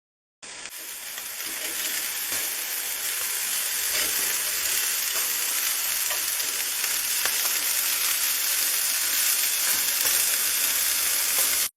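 Chicken tikka pieces sizzling as they cook, a steady hiss with scattered small crackles. It starts suddenly, builds a little over the first two seconds and cuts off sharply near the end.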